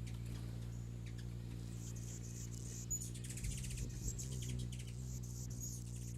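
Faint, high-pitched bird chirps, short and scattered, over a steady low hum.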